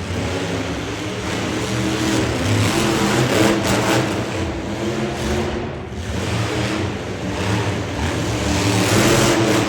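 Monster truck engines revving hard and running under load, the pitch rising and falling as the throttle is worked, with a short drop in level about six seconds in.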